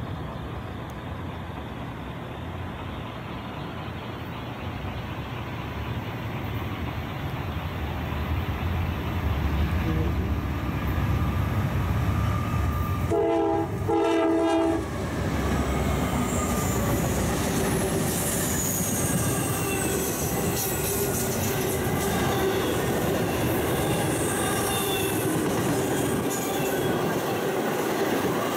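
A Norfolk Southern intermodal freight led by GE C44-9W diesel locomotives approaches at about 50 mph, its engine rumble building. About halfway through, the lead locomotive's air horn sounds two short blasts as it passes. The intermodal cars then roll by with steady wheel-and-rail noise and thin, high-pitched wheel squeals.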